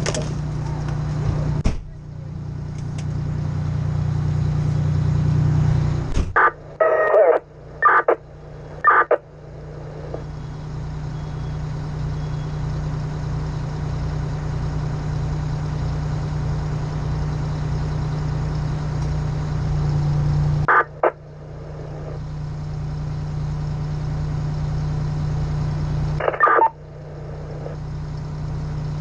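Fire engine's diesel engine running steadily with a low, even hum. A few short, sharp sounds cut in about six to nine seconds in, and twice more later.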